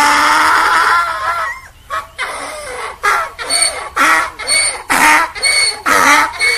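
Donkey braying: one long drawn-out call for about a second and a half, then after a short break a rapid run of rhythmic hee-haw gasps, about two a second.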